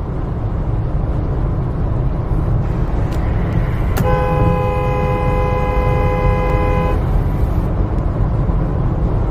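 Steady road and engine noise from a moving car. About four seconds in, a car horn starts sharply, holds one steady note for about three seconds, then stops.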